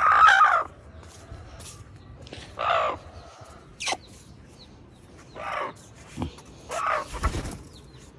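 Four short, harsh bird calls spaced about two seconds apart, the first the loudest, with a sharp click between the second and third.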